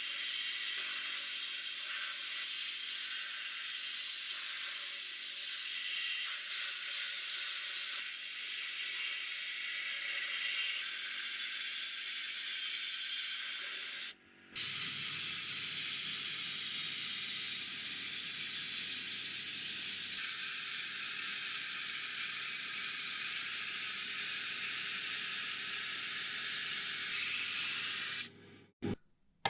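Steady hiss of compressed air spraying, in two long runs with a brief stop about halfway through; the second run is louder and ends abruptly near the end.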